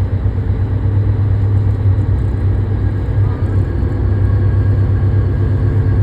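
Boat engine running steadily, a low drone with no change in pitch.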